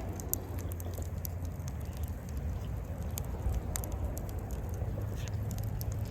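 Wood fire crackling in a Coleman Fire Disk fire pit, with irregular sharp pops scattered through, over a low steady rumble.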